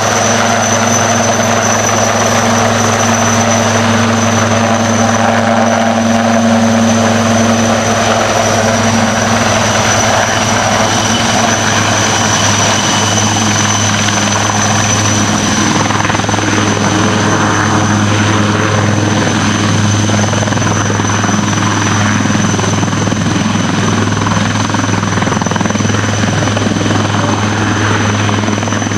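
Helicopter running steadily and loudly, with a constant high whine over the heavy rotor noise.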